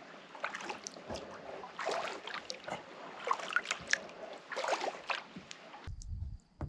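Kayak paddle blades dipping into and pulling through lake water, with splashes and drips in uneven strokes. The paddling sound cuts off suddenly near the end, followed by a short low rumble.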